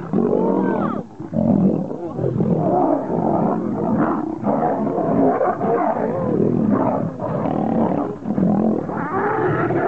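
Two male lions fighting at close quarters, vocalizing loudly almost without a break, with a short lull about a second in.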